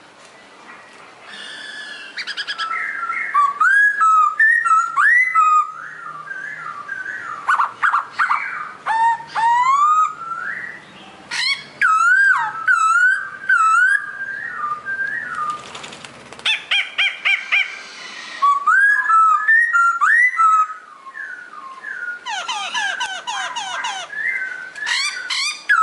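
Pokho songbird singing: loud, varied whistled phrases with wavering notes, broken up by rapid chirping trills and brief pauses.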